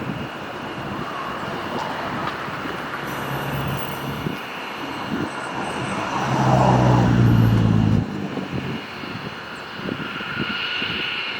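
Steady engine and rushing noise of machinery. About six seconds in, a louder low hum rises, then cuts off suddenly two seconds later.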